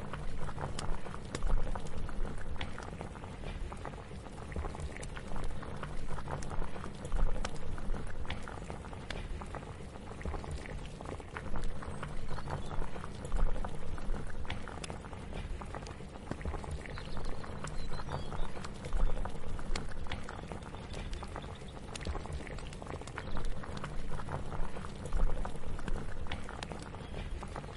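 A pot bubbling at a steady boil: a low rumble with many small pops and crackles throughout.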